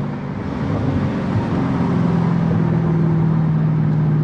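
Car's exhaust growling at low revs, heard through an open car window over road noise: a steady low engine note that rises a little about halfway through.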